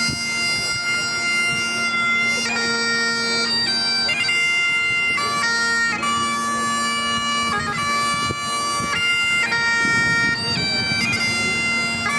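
Bagpipes playing a slow tune, the chanter moving from note to note over a steady drone.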